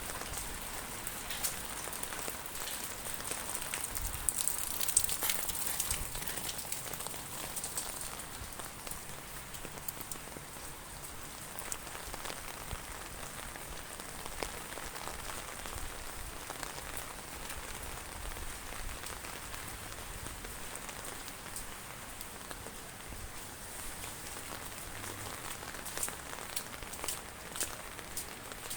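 Heavy rain falling: a steady hiss with many sharp individual drop hits, briefly louder about four to six seconds in and again near the end.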